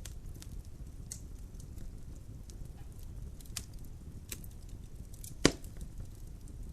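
Logs burning in a fireplace, crackling: scattered sharp snaps over a low steady rumble of the flames, with one loud pop about five and a half seconds in.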